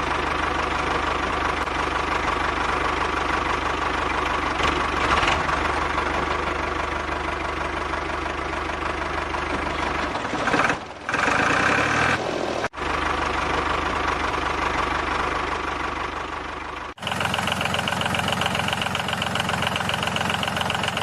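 Miniature toy diesel engine running with a steady, fast knocking clatter. About seventeen seconds in the sound changes to a brighter, thinner clatter.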